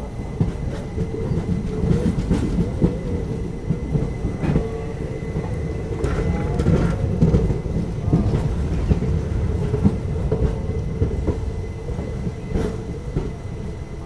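Mussoorie Express passenger train running into a station stop: a steady rumble of wheels on rail, broken by scattered clicks and knocks at an uneven spacing.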